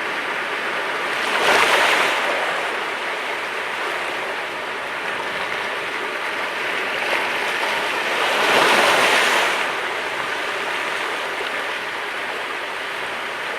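Mediterranean sea waves washing onto the shore: a steady surf wash with two louder breaks, one about two seconds in and another about nine seconds in.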